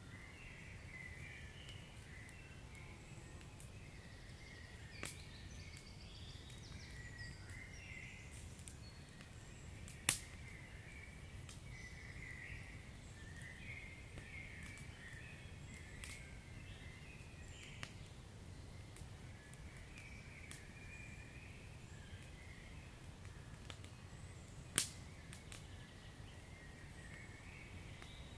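Wood fire burning in a fireplace: a steady low rumble of flames with a faint continuous hiss and flutter, broken by scattered sharp crackles and pops, the two loudest about ten seconds in and near the end.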